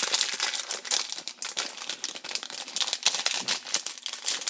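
Plastic snack-pack wrapper crinkling, a dense run of crackles, as it is handled and opened.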